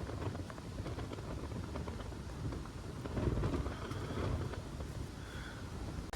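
Strong wind buffeting the microphone: an uneven low rumble that swells into a stronger gust about three seconds in.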